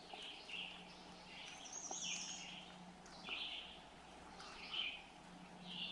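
Small birds chirping faintly, with short high calls about every second, over a quiet outdoor background.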